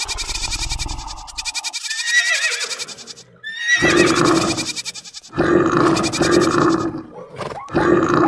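A string of animal-call sound effects, one after another, each a second or two long with short breaks between them, some with sliding pitch.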